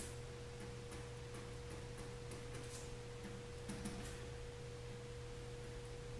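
Steady electrical hum and a constant mid-pitched whine from the recording equipment, with a few faint pen strokes scratching on paper.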